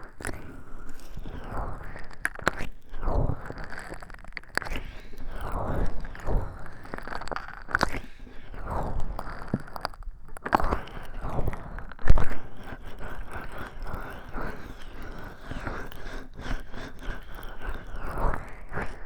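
Oiled hands rubbing and massaging close to a 3Dio binaural microphone: continuous wet, slippery rubbing in irregular strokes, with small sharp clicks scattered through it.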